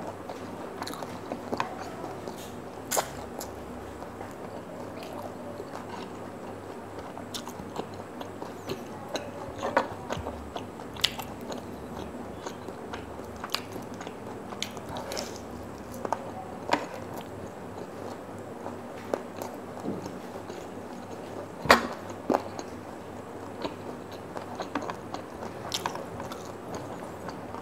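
Close-miked chewing and biting of spicy fried chicken, with wet mouth sounds and irregular short clicks and crunches scattered throughout; the loudest snap comes about three quarters of the way through.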